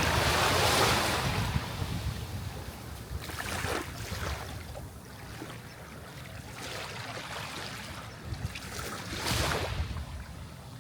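Sea waves washing onto the shore: a surge of surf loudest at the start that slowly ebbs, a smaller wash a few seconds in, and another wave breaking about nine seconds in, over a steady low rumble.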